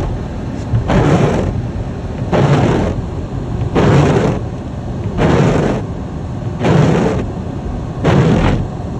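Car windshield wipers sweeping snow off the glass, a rushing swipe about every second and a half, over the steady low rumble of the car driving.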